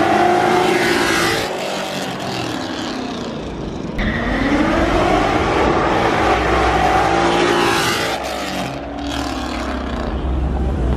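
Cars accelerating hard in a street drag race, their engine notes repeatedly climbing and falling. A deep engine rumble takes over about four seconds in.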